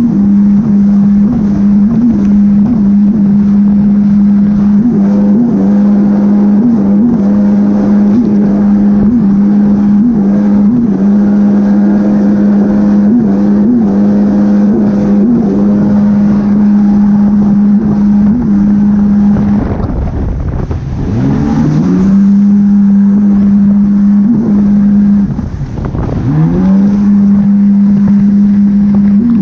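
Jet ski engine running hard at a steady high pitch, with short dips every second or so. The throttle is eased off twice in the second half, and each time the engine drops away and then climbs back up to speed.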